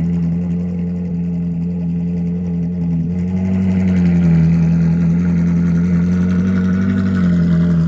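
Supercar engine running at a steady idle, its pitch lifting slightly about three seconds in and easing back near the end.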